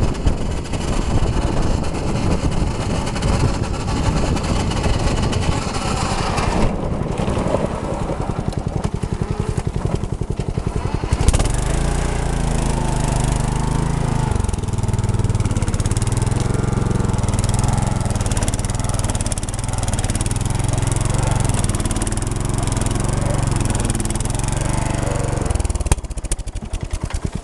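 Small tractor's engine running with a fast, even beat of firing pulses. From about eleven seconds in until near the end, a heavy low rumble covers the engine.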